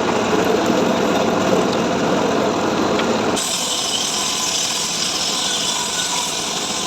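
Engine-driven saw running steadily while cutting dry mahogany, the blade rasping through the wood. About three and a half seconds in, the sound changes to a brighter, hissier tone.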